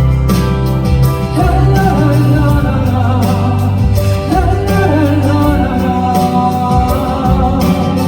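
Live band music with a wordless sung melody that comes in about a second and a half in.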